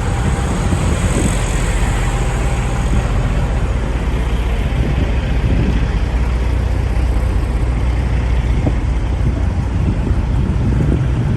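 Semi-truck diesel engine idling close by: a steady low rumble with a hiss of noise over it.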